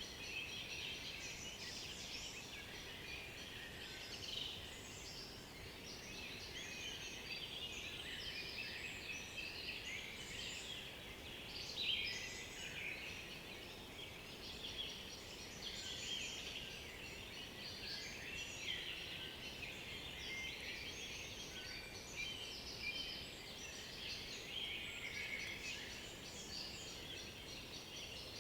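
Several songbirds singing at once, their songs and calls overlapping in a dense, continuous chorus of high chirps and trills.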